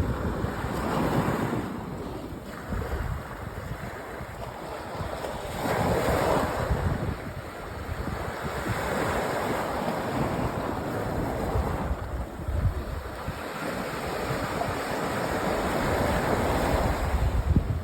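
Sea waves breaking and washing up a sandy beach, the surf swelling and ebbing every few seconds, with wind rumbling on the microphone.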